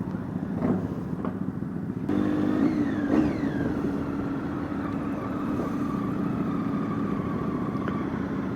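Motorcycle engine running; it grows louder about two seconds in, rises and falls in pitch briefly, then runs steadily at an even note.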